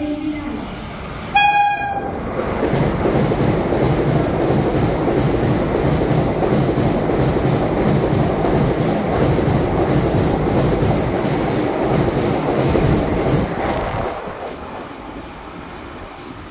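Vande Bharat Express electric trainset sounding a short horn blast about a second and a half in, then passing through at about 130 km/h: a loud rush of wheels and air with a rhythmic clatter of wheels over rail joints, which fades away in the last couple of seconds as the train recedes.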